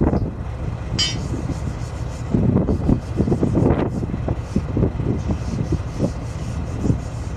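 Heavy machinery's diesel engine running steadily under scattered metal clanks and knocks from work on a large wheel-loader tyre, with a brief high metallic ring about a second in.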